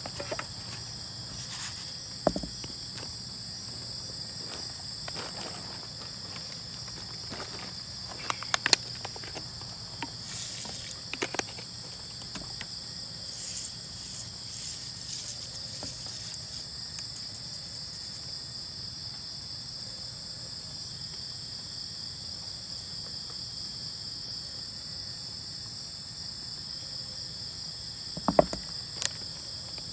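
Steady high-pitched chorus of insects droning without a break, with scattered knocks and clicks, the sharpest about two seconds in, around eight to nine seconds in and near the end.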